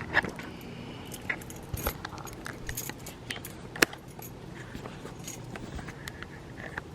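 Thick ham and white bean soup simmering in an electric kitchen kettle with the lid off, bubbles bursting in irregular small pops and clicks. The heat has been turned down because it was popping too much.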